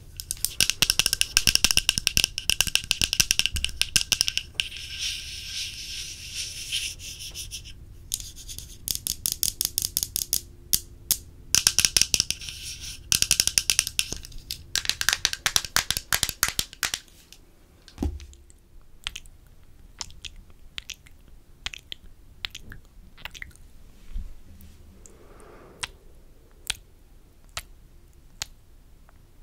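Close-miked ASMR mouth sounds and tapping: fast runs of crisp clicks in bursts with short pauses between them, thinning after about seventeen seconds to scattered single clicks and a soft thump.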